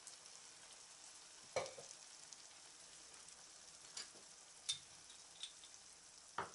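Chicken and freshly added tomato sauce frying faintly in a frying pan: a low sizzle with a handful of brief pops and ticks spread through.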